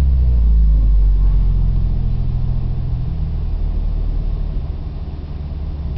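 Car engine running at low revs as it settles back from a light rev toward idle, a steady low hum that eases off about halfway through.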